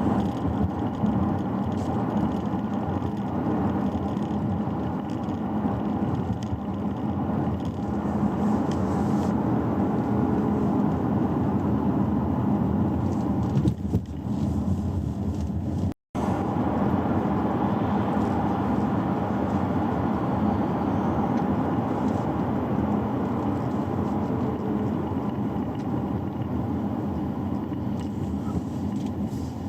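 Steady road and running noise of a Chery Omoda car being driven, with a low hum under the tyre rush. It drops out to silence for an instant about halfway through.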